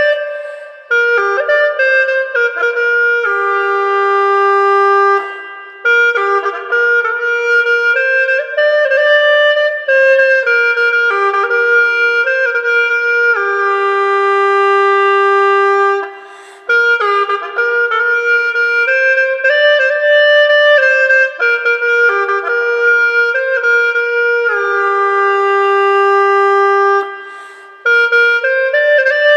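Hulusi (gourd cucurbit flute) playing a slow Dai folk melody in phrases, each ending on a long held note, with short breaks for breath between them.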